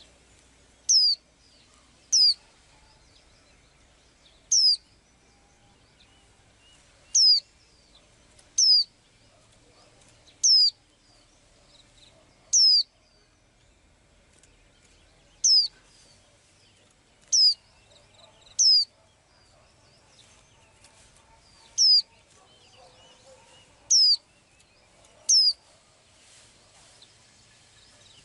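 A small bird repeating a single short, high-pitched call that sweeps downward in pitch, about thirteen times, every two seconds or so.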